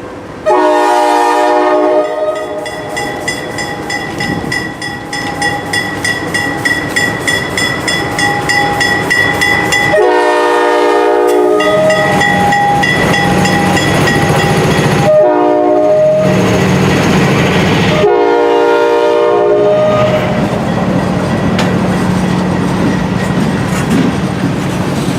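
Multi-chime air horn of a GE C40-8 diesel locomotive sounding the grade-crossing signal: two long blasts, a short one, then a long one. Between the blasts, wheels click rhythmically over the rail joints and a low diesel rumble builds as the locomotives pass.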